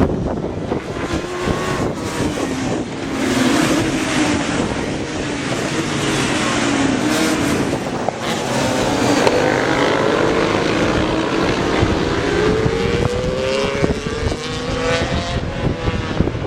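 Racing motorcycle engines running at high revs on track, the engine pitch dipping and then climbing steadily as the bikes pass and accelerate.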